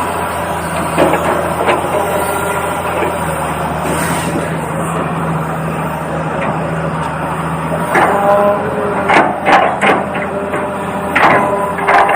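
Small electric motors and plastic gearboxes of toy RC construction vehicles whirring steadily, with several sharp clacks and knocks in the second half.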